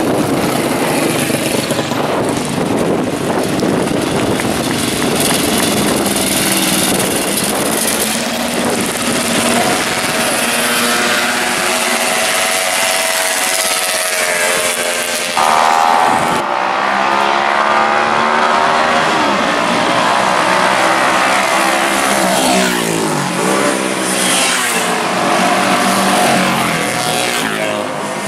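Classic racing motorcycle engines running hard, their pitch rising and falling as they rev up and down through the gears, under a rush of wind noise. The sound changes abruptly about halfway through.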